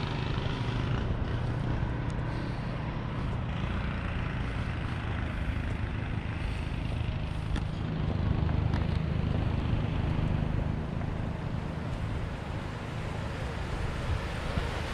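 Steady low rumble with a hiss above it, strongest at the low end and without distinct events: outdoor noise.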